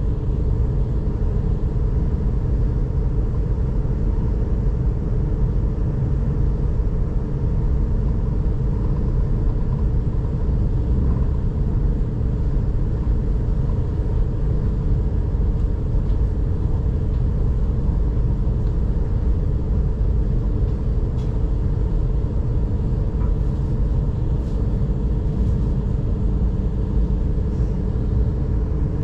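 S-Bahn train heard from inside the carriage, running at speed: a steady rumble of wheels on the rails with a low, even hum.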